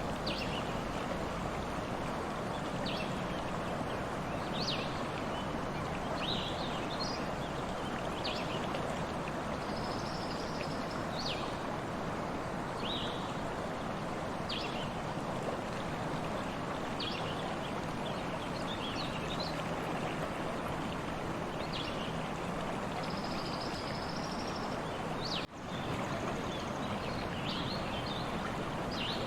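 A stream running steadily, with short bird chirps repeating every second or two over it. The sound dips briefly about 25 seconds in.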